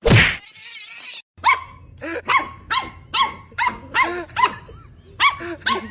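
A sharp whack right at the start, then a dog barking in a run of short, high calls, about two a second.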